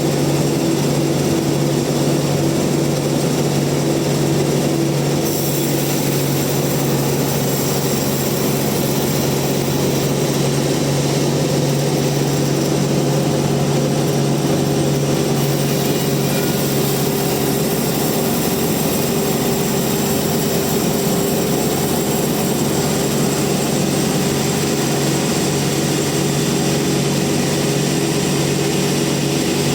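Band sawmill running steadily, a constant machine hum with an even pitch that does not change.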